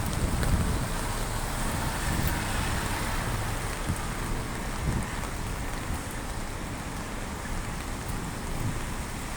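Heavy rain falling steadily, with a low rumble of city traffic underneath.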